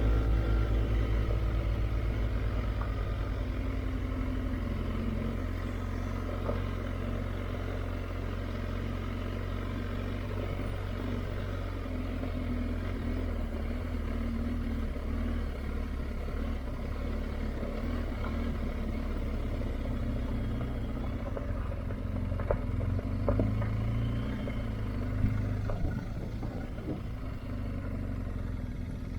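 BMW R1250GS Adventure's boxer-twin engine running steadily on the move.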